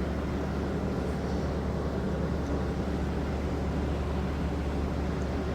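Steady low mechanical hum with a constant background rush.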